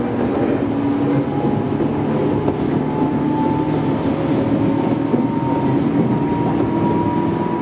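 Japanese electric commuter train running on the rails, a steady mechanical rumble with a humming motor tone.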